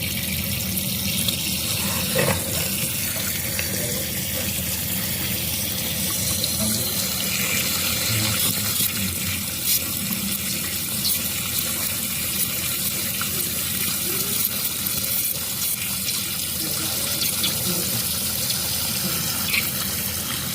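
Water running steadily, a continuous even rush like an open tap or pipe flowing.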